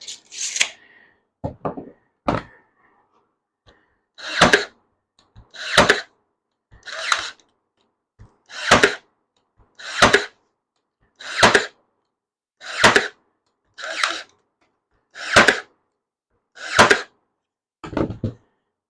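Cordless 18-gauge brad nailer (Ryobi AirStrike) firing brads into cedar fence pickets: about a dozen sharp shots, roughly one every second and a half, after a few lighter knocks in the first couple of seconds.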